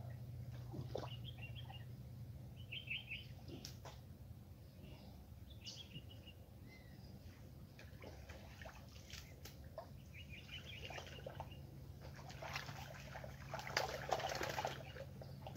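Small birds chirping in short, quick trills every few seconds over a steady low hum. About twelve seconds in, a couple of seconds of louder rustling noise.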